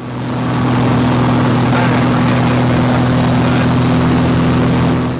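Small propeller airplane in flight: the engine and propeller drone steadily with a low hum over a wide rushing noise. The sound fades in at the start and cuts off abruptly near the end.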